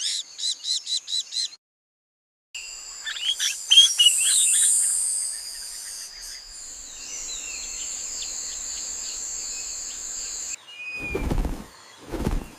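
Birds chirping quickly and repeatedly at a high pitch, then, after a brief gap, a tropical forest soundscape: steady high insect drones under scattered bird calls. A lower, louder sound comes in near the end.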